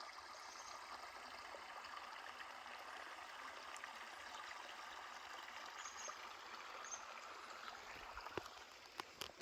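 Faint, steady rush of flowing stream water, easing off about eight seconds in, with a few sharp clicks near the end.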